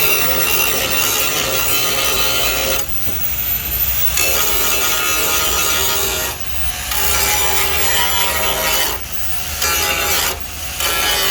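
Handheld power tool grinding or sanding, with a steady motor whine, stopping briefly four times: about three, six, nine and ten and a half seconds in.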